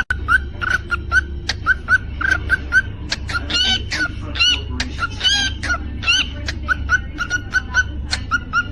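Cockatiel chirping in a quick, even series of short calls, with a handful of louder whistled calls that rise and fall in pitch about halfway through. A steady low hum runs underneath.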